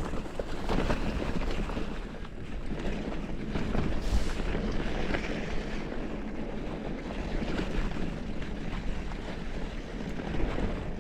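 Wind buffeting the microphone over a steady low rumble while a mountain bike rolls along a trail.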